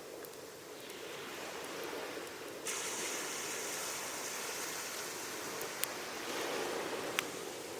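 Waves washing on the shore, rising and falling, with a wood fire of cedar and oak burning close by. A sharper hiss comes in suddenly a few seconds in, and the wood gives two sharp pops in the second half.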